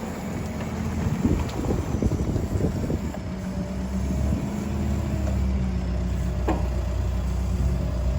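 An engine running steadily at idle, its even note coming in clearly about three seconds in, with wind buffeting the microphone before that.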